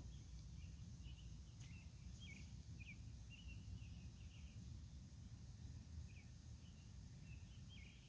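Faint outdoor ambience: a steady low rumble with a scattering of short, high chirps, several in the first few seconds and a few more near the end.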